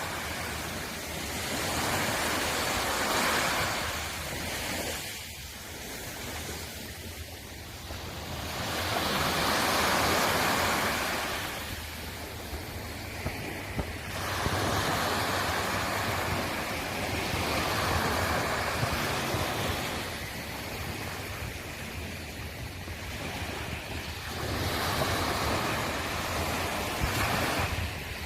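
Sea waves breaking on the shore, the surf swelling and washing back in slow surges every few seconds.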